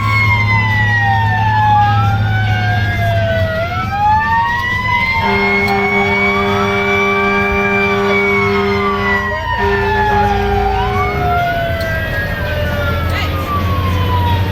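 Fire engine responding with two sirens wailing together, each rising and falling in long sweeps, over the low drone of the truck's engine. A long steady horn blast sounds about five seconds in and lasts about four seconds.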